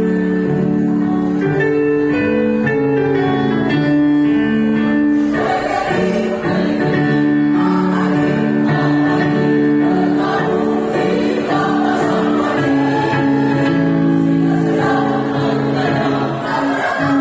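Choir singing in harmony, holding long notes that move from chord to chord.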